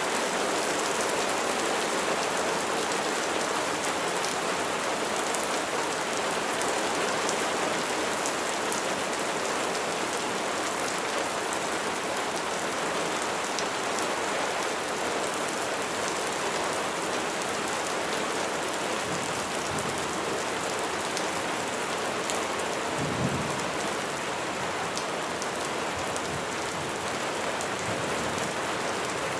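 Steady rain falling and pattering on a surface, with a brief low rumble of thunder about three-quarters of the way through.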